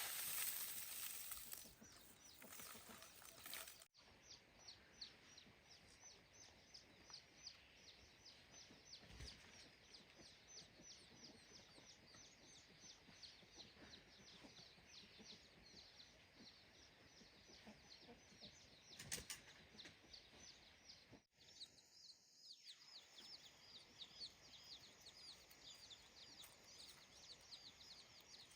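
Faint rural ambience of rapid high-pitched chirping, evenly repeated about three times a second, with a single sharp knock about nineteen seconds in.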